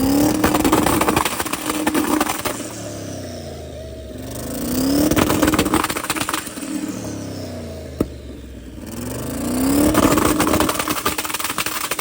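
Twin-turbo LS V8 engine revved up against its two-step launch limiter three times, running with a rapid stuttering crackle while held, then dropping back to idle between pulls. The engine still needs to be tuned.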